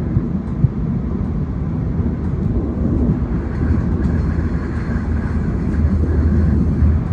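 Oscar H-set double-deck electric train running at speed, heard from inside the carriage as a steady low rumble, with a couple of light knocks in the first second.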